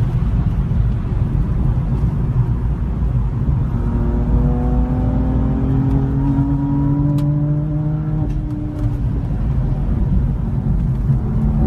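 A BMW M4 GTS's twin-turbo inline-six engine running with a heavy low rumble. Its pitch climbs slowly for several seconds in the middle, as under gentle acceleration, then drops back.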